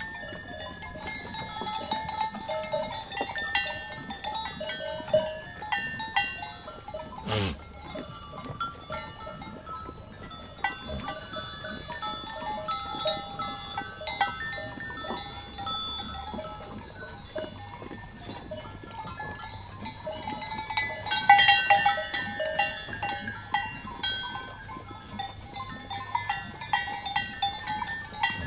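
Bells on a flock of herded livestock clinking and tinkling irregularly as the animals move, with one brief sound sliding down in pitch about seven seconds in.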